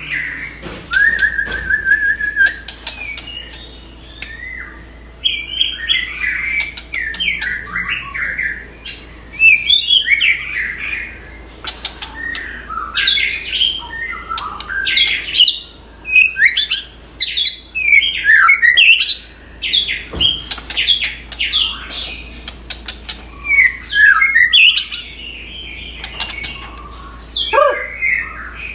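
Pet songbird singing a long, varied song of quick chirps, trills and whistles in bursts, with short pauses between phrases.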